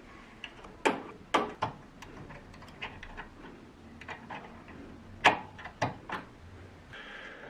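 Scattered sharp clicks and knocks of small parts being handled and fitted by hand, in two clusters about a second in and about five seconds in.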